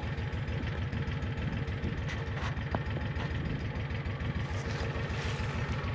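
An engine running steadily at idle, a low even throb.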